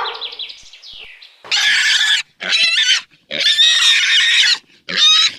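Pig squealing: four loud, harsh squeals with short gaps between them, starting about a second and a half in, the third the longest at over a second.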